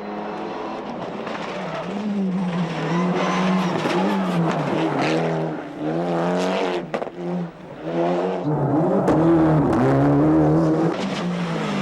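Rally car engine revving hard, its pitch climbing and dropping repeatedly through gear changes, with a few sharp cracks around the middle.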